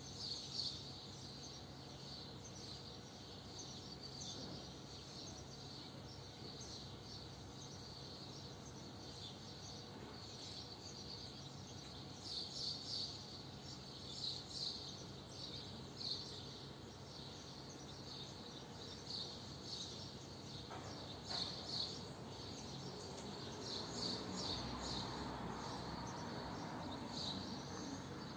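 Swallows twittering in quick clusters of short high chirps, over a steady low background hum. A broad rushing noise swells from about 21 seconds in.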